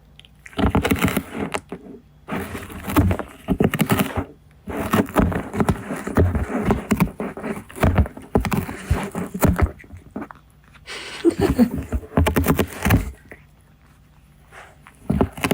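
Scottish Fold cat biting and tearing at a cardboard box: repeated bouts of crunchy ripping and scraping of the cardboard, with short pauses between them and a longer lull near the end.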